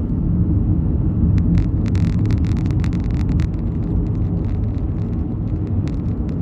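Car road and engine noise heard from inside the moving car: a steady low rumble, with a run of light, irregular clicks or rattles through the middle.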